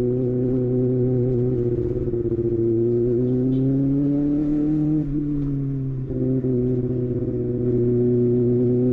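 Kawasaki ZX6R's inline-four engine running at steady revs; its pitch climbs a little, drops about five seconds in, then holds steady again.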